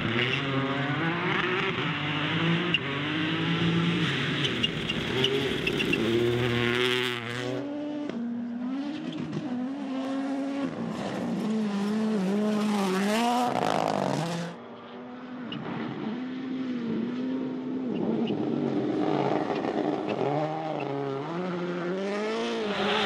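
Rally car engines revving hard, the pitch climbing and dropping again and again with throttle and gear changes, the sound switching abruptly a few times from one car to another.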